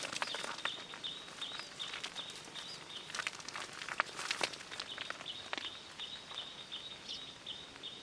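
Short, high chirps from a small animal repeat at about two to three a second, breaking off briefly partway through. Scattered sharp clicks and snaps sound over them.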